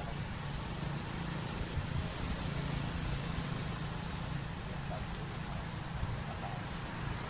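Steady low rumble of background noise, with a few faint short high chirps scattered through it.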